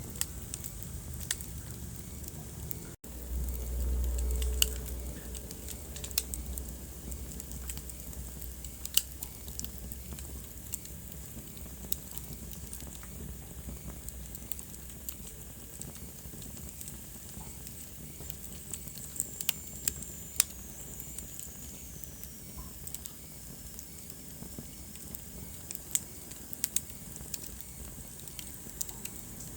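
Wood fire crackling in a fireplace, with sharp irregular pops over a steady low hiss. A brief low rumble comes a few seconds in, and a faint high whistle falls in pitch about twenty seconds in.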